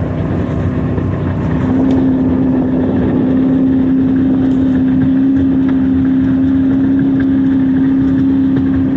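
Johnson outboard motor on a Carolina Skiff running at steady cruising speed, a nice steady hum. Its tone rises slightly and grows louder about a second and a half in, over a steady rushing noise.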